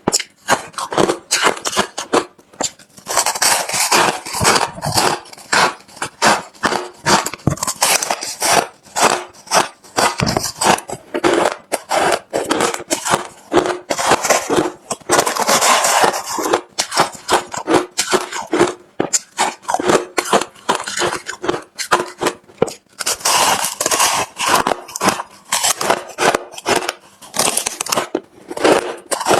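Close-up chewing of hard refrozen crushed ice: rapid, continuous sharp crunching and cracking, with a few longer spells of denser, louder grinding as mouthfuls are bitten down.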